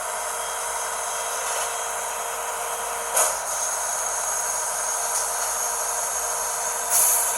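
Garbage truck working: steady mechanical running noise with a thin high whine, broken by two short bursts of hiss, about three seconds in and again near the end.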